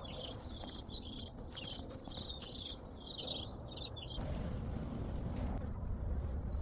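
Varied tit calling in quick, repeated high chirping phrases for about four seconds. A low rumble then takes over, with a few faint chirps near the end.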